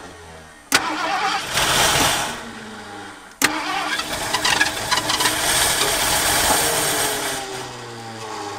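An old Ford LTD engine with DuraSpark ignition is cranked on the starter. It catches and runs roughly in two abrupt bursts, then winds down with a falling pitch near the end. It keeps going only while the key is held, which the crew puts down to a wiring issue.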